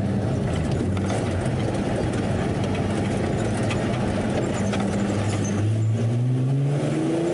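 Nissan 370Z 3.7-litre V6 engine in a Ford F100 pickup, running at a steady note on the move over tyre and road noise. About five and a half seconds in it revs up, its pitch rising steadily as the truck accelerates.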